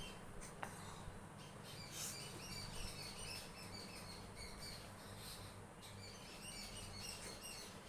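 Small birds chirping faintly in the background, with many short, repeated calls scattered throughout.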